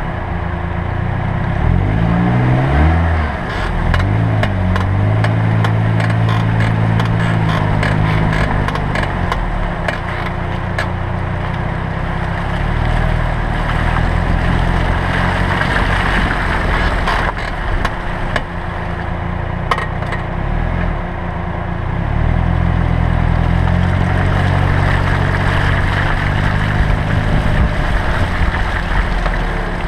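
2007 Pontiac Vibe on the move, its engine speeding up and slowing with steady road noise. Over it comes a rapid run of creaking clicks from the left front brake as the brakes are applied, which later proved to be dry, bare contact points between the brake pads and their pad holders.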